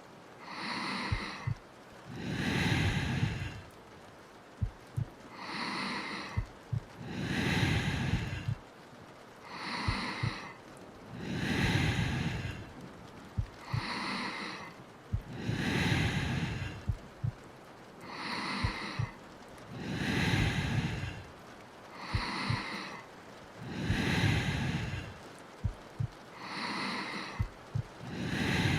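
Slow, deep breathing close to the microphone: about seven in-and-out breaths, roughly one every four seconds, each exhale fuller and lower than the airy inhale. Soft paired thumps of a heartbeat sound between the breaths.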